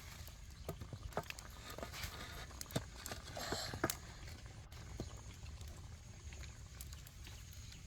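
Scattered light knocks and clicks at irregular intervals, several over a few seconds, over a faint low background hum.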